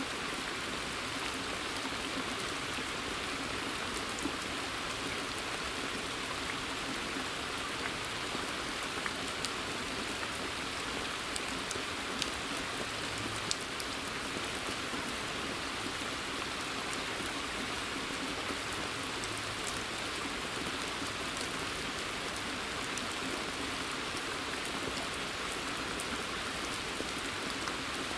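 Steady rain falling in a forest and onto a pond's water surface, an even patter with occasional single drops ticking out a little louder.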